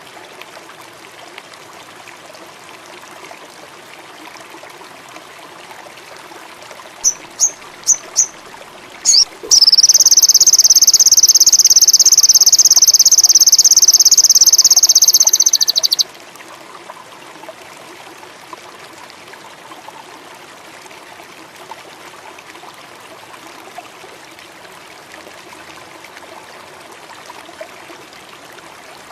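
Sogon indigo songbird giving four short, rising high chirps about seven seconds in, then a loud, very high, rapid trill held for about six seconds that stops abruptly. Under it runs a steady background of flowing water and insects.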